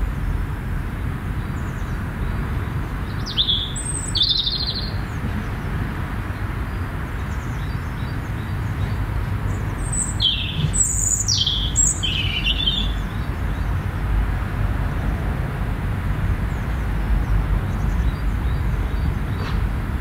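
Garden birds calling: a couple of short high chirps about three seconds in, then a quick run of four or five high, falling notes around ten to twelve seconds in. Beneath them runs a steady low rumble.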